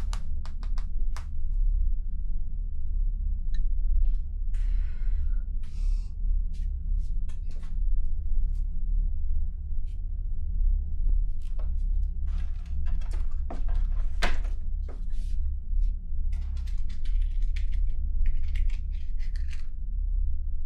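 Irregular clicks and knocks with a few short scraping or rustling noises, over a steady low rumble.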